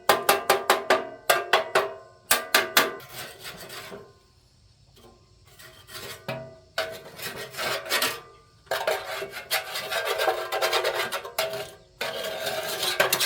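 Rusty metal blade being scraped or filed with repeated rasping strokes. The strokes come quick and ringing at first, about four a second, then turn into longer bouts of steady scraping with short pauses between them.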